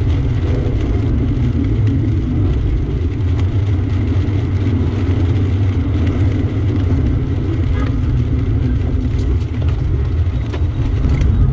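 A motor vehicle running: a loud, steady low rumble of engine and road noise, with a few faint clicks near the end, cutting off abruptly.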